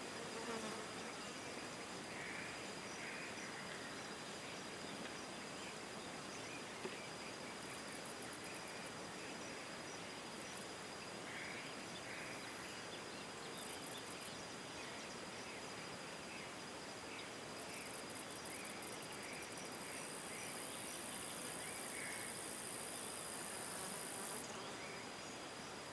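Insects droning and trilling: a steady high-pitched whine with bursts of higher buzzing that come and go, loudest near the end, and scattered faint short calls.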